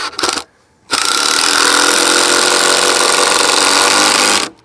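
A handheld power tool's motor runs steadily for about three and a half seconds, starting about a second in and cutting off sharply near the end.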